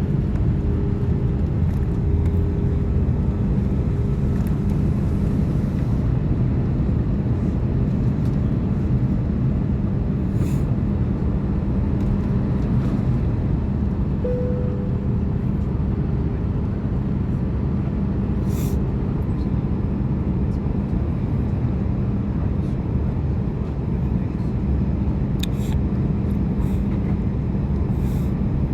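Steady cabin noise inside an Airbus A330-200 airliner: a low rumble of engines and airflow with a constant hum. A few faint clicks from the cabin and a brief tone about halfway through.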